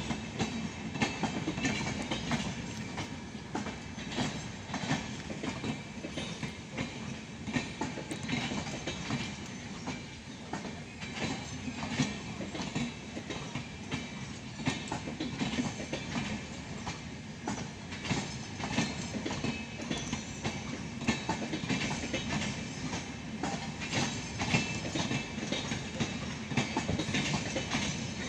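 LHB passenger coaches of an Indian Railways express rolling past, their wheels clicking over the rail joints in a steady clickety-clack over a low rumble.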